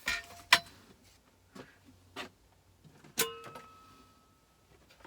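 A few scattered light clicks and knocks from the saw being handled, with no motor running. One knock about three seconds in leaves a brief metallic ring.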